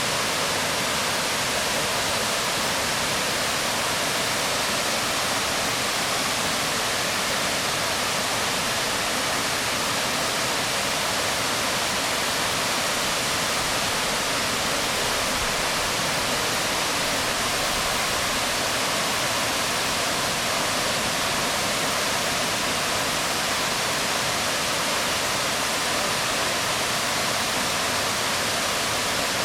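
Waterfall falling onto rocks: a steady, unbroken rush of water with no changes.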